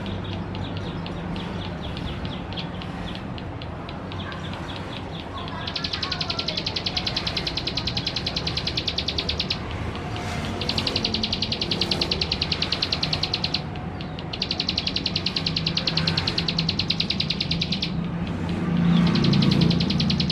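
Male prinia (ciblek sawah) singing a rapid, buzzy trill in long phrases of three to four seconds, separated by short pauses. The song is fainter for the first few seconds and then comes in strongly. A low rumble runs underneath and swells near the end.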